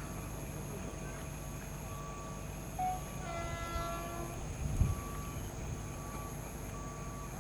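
An approaching train rumbles steadily, and its locomotive horn sounds briefly about three seconds in. A low thump comes a little under five seconds in.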